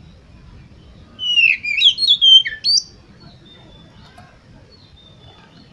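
Oriental magpie-robin (kacer) singing: one loud, quick phrase of varied whistled notes sliding up and down, about a second and a half long, followed by faint thin high whistles.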